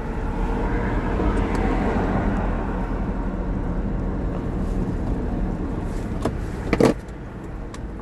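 A motor vehicle's engine and road noise running steadily as it drives, with one sharp loud knock about seven seconds in.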